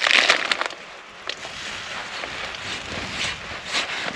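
Rustling of plastic bags and packaging being handled while food and gear are unpacked, louder in the first second, then a few light clicks and knocks.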